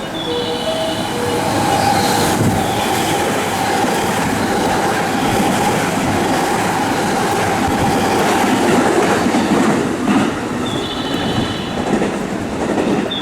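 Train passing through a station without stopping: a steady rush of wheel-on-rail noise with clatter over the rail joints and a steady whine above it.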